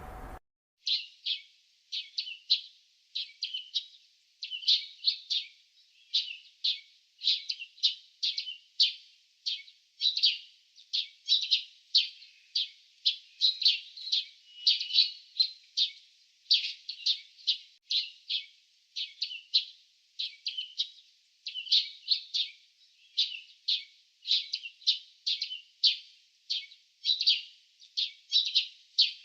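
Small birds chirping: quick, short, high chirps repeated over and over, several a second.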